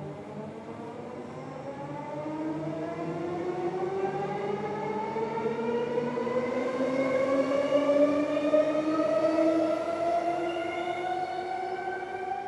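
Transperth A-series electric multiple unit pulling away, its traction motors whining in a steadily rising pitch as the train accelerates. The whine grows louder to a peak about eight seconds in, then eases off as the train draws away.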